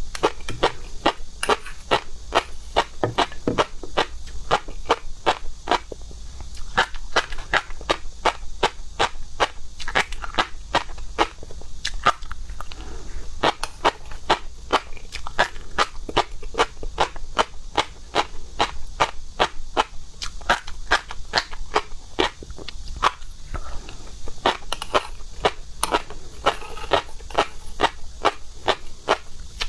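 Close-miked chewing of seafood: a rapid run of crisp, wet crunching clicks, several a second, with no let-up.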